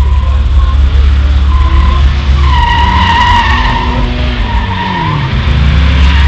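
A drifting car's tyres squealing as it slides, loudest about three seconds in, over the engine's heavy rumble; the engine note drops in pitch around four to five seconds in.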